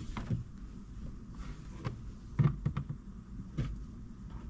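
A handful of light, separate clicks and knocks from handling small parts and plastic trim inside a car.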